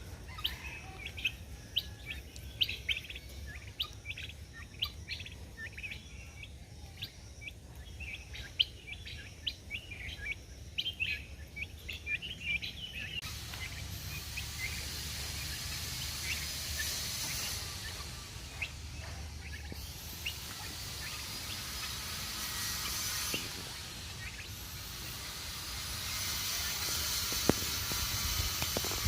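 Birds chirping, many short high calls in quick succession over the first half. About halfway through, a steady hiss rises and the chirps become sparse.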